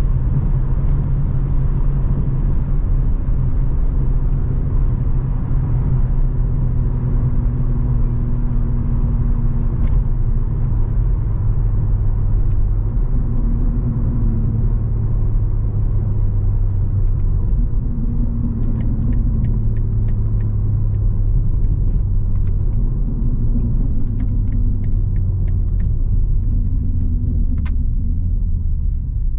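BMW G80 M3's twin-turbo inline-six, fitted with an aftermarket single midpipe, running at a steady cruise: a continuous low exhaust drone whose pitch rises and dips slightly a few times.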